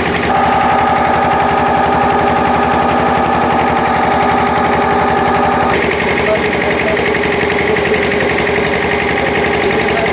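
An engine running steadily with a fast, even knocking beat; about halfway through its pitch and tone shift.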